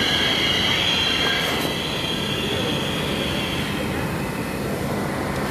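New York City subway F train running on the rails with a steady rumble, its wheels squealing on a high tone that fades out about halfway through.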